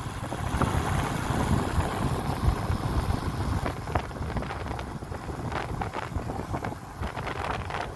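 Wind buffeting the microphone: a steady, uneven low rumble with faint scattered clicks.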